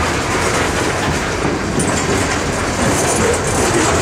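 Freight train of loaded covered hopper cars rolling past close by: a steady, loud rumble and clatter of steel wheels on the rails.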